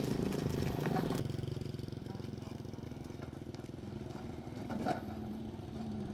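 A small motor running steadily with a low, even hum, which drops a little in level about a second in.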